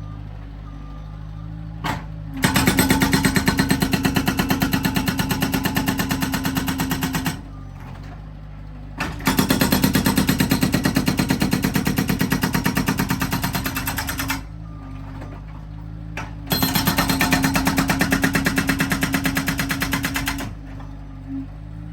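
Felix FX-68 hydraulic breaker on a Bobcat S130 skid steer hammering in three bursts of rapid, evenly spaced blows, each lasting about four to five seconds. Between bursts the skid steer's diesel engine runs steadily.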